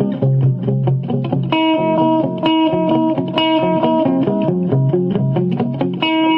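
Electric guitar played through a dual-channel stereo delay pedal, its two channels set to different repeat speeds so the echoes bounce back and forth. Quick picked notes run on, with the repeats layered over them.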